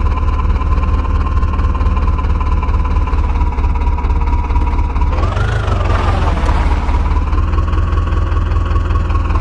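Heavy diesel engine running steadily with a high whine over it. About five seconds in, the engine briefly revs up and settles back down, the whine rising and falling with it.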